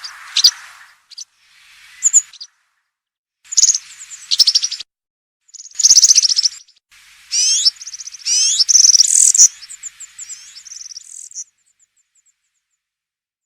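European serin singing its wild field-style song: bursts of very fast, high, jingling twitters broken by short pauses, stopping shortly before the end.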